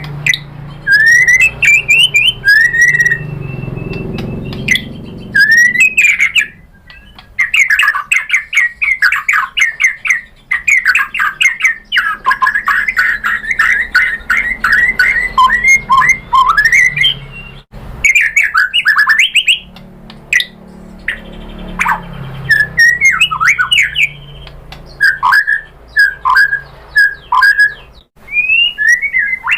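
White-rumped shama (murai batu) singing a long, varied song: fast runs of chattering notes and clear whistles, broken by a few brief pauses.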